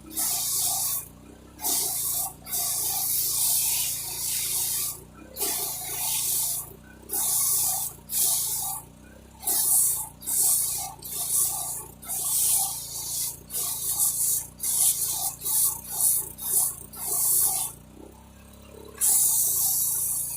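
Gas-powered pressure washer spraying, its high hiss cutting in and out in short bursts about once a second over the steady hum of its engine.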